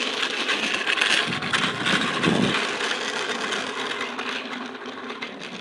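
Mini bike rattling and clattering as it rolls, with a loose bracket spinning and the pedals audible, which the rider takes as a bad sign. A low thump about two seconds in; the rattle fades toward the end.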